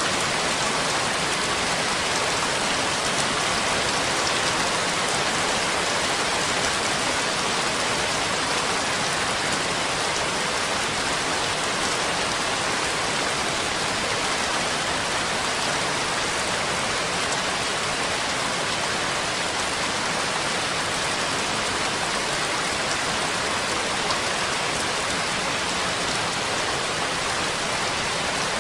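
Steady rain falling, a constant even patter with no thunder or breaks.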